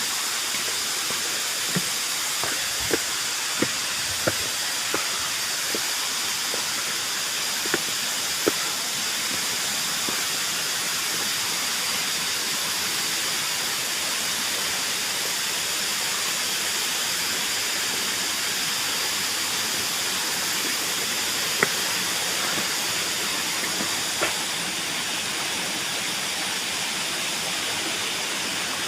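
Waterfall rushing steadily under a dense chorus of cicadas, heard as a constant high buzz. A few short clicks and knocks come in the first ten seconds and twice more past the twenty-second mark.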